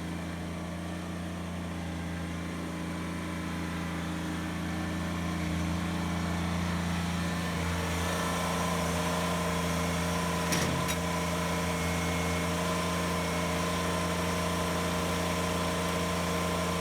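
Kubota BX23s tractor's small three-cylinder diesel engine idling steadily. A few more steady tones join about eight seconds in, and there is a brief click about ten and a half seconds in.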